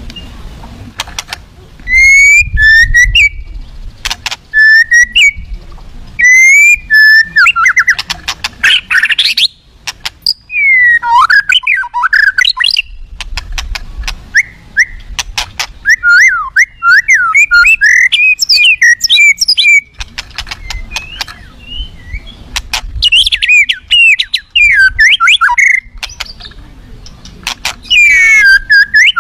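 White-rumped shama (murai batu) singing loudly in quick, varied bursts of whistles, trills and sharp clicks, separated by short pauses: an aggressive song that runs through its repertoire of learned phrases.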